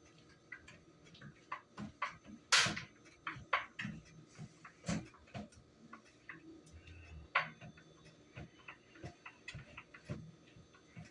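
Irregular light clicks and knocks of a kitchen utensil against a mixing bowl while batter is worked by hand.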